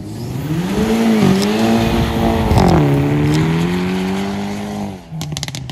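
Hyundai i30 N hot hatch accelerating hard, its turbocharged four-cylinder engine revving up through two quick upshifts, with a crackle at the second. It then pulls steadily until the sound drops away about five seconds in, followed by a quick burst of sharp pops.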